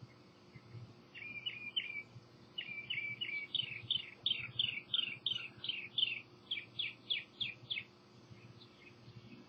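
A songbird singing clear whistled phrases: a short run of notes about a second in, then a longer run of quick repeated downslurred whistles, about four a second, that stops shortly before the end.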